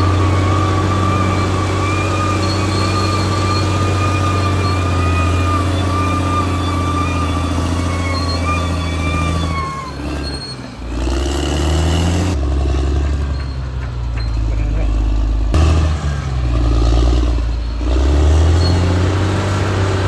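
Caterpillar D6R XL bulldozer's diesel engine running steadily with a wavering high whine over it. Roughly halfway through the engine note drops and the whine fades. The engine then shifts pitch a few times and comes back up to its earlier note near the end.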